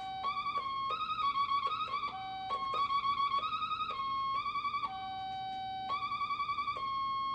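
An older wah pedal wired in reverse on a Stratocaster-type electric guitar, oscillating on its own into a high, warbling, seagull-like squeal; the strings play no part. The tone jumps back and forth between a higher and a lower pitch, with a small click at each change, as the volume knob and pedal are worked.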